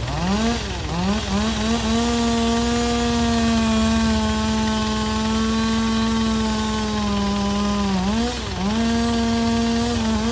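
A machine motor revs up to a steady high-pitched run, with a quick dip and recovery just after it starts and again about eight seconds in, then drops off at the end, over a steady low engine hum.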